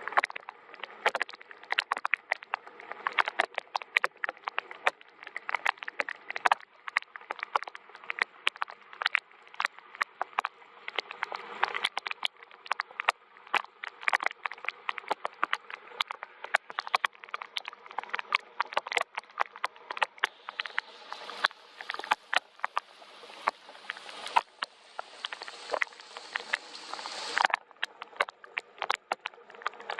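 Soft rain, with drops pattering and dripping in a dense, irregular stream of sharp ticks. About two-thirds in a brighter hiss of heavier rain joins in, then cuts off suddenly shortly before the end.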